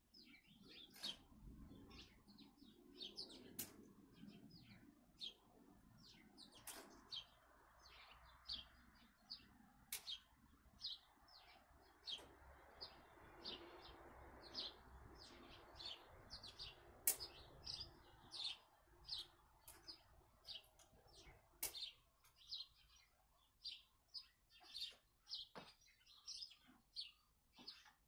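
Faint birds chirping steadily outdoors, many short high chirps about one to two a second, with a few sharp clicks standing out among them.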